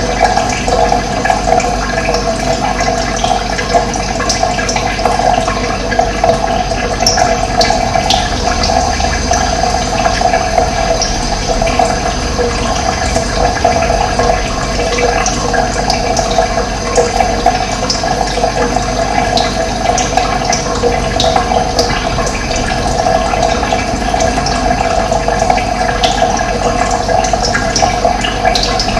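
Running water flowing steadily, with occasional short high bird chirps scattered through it.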